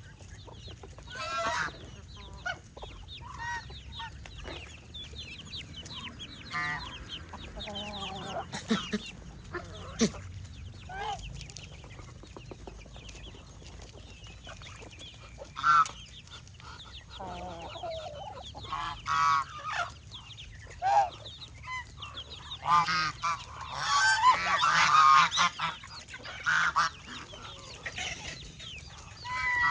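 Domestic geese honking in scattered calls, with a loud run of honks about three-quarters of the way through, among clucking chickens.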